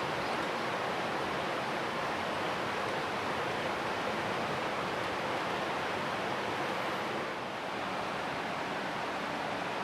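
Steady, even rushing noise with no distinct knocks or tones, dipping slightly about seven and a half seconds in.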